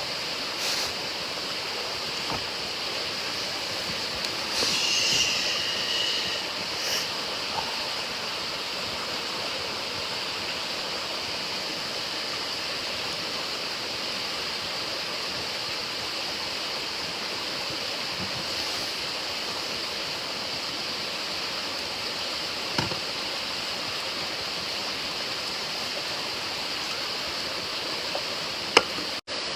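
A small, shallow stream flowing: a steady rushing of water. A short louder noise comes about five seconds in, and a couple of sharp clicks sound later on.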